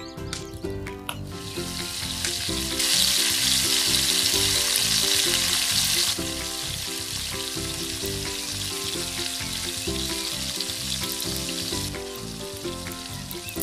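Potato sticks deep-frying in hot oil in a tiny metal pan, sizzling. The sizzle starts about a second in, is loudest from about three to six seconds, then settles to a steadier, lower hiss. Background music plays underneath.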